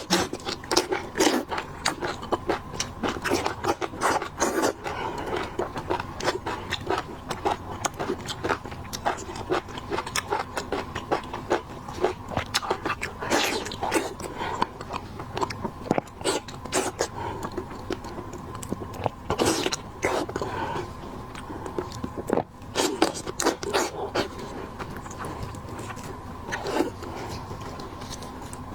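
Close-miked eating of seafood: chewing and biting with many irregular crackles, clicks and scrapes, over a faint steady hum.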